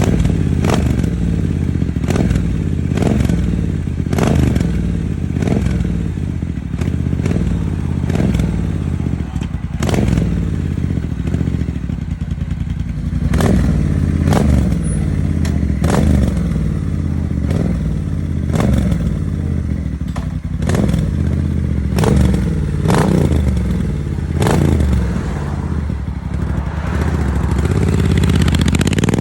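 Classic Triumph motorcycle engine running with repeated throttle blips. The pitch rises and falls about once a second, and each blip brings a sharp crack.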